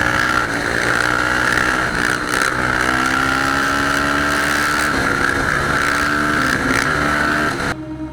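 Motorcycle engines running and revving, with pitches gliding up and down, cutting off suddenly near the end.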